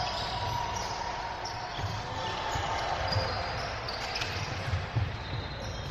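Basketball dribbled on a hardwood gym floor: a run of dull bounces at an uneven pace, over the hum of a gym with faint voices.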